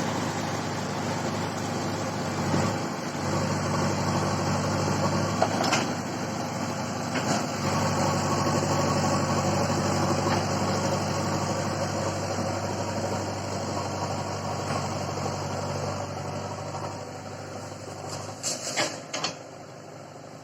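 JCB digger's diesel engine running steadily, with a few scattered knocks. The engine sound drops away about eighteen seconds in, followed by a quick cluster of sharp knocks.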